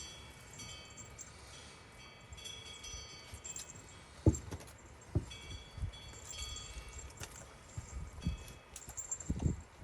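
Small collar bells on Jindo puppies jingling in short, repeated bursts as the puppies move while nursing. A few dull thumps are mixed in, the loudest about four seconds in.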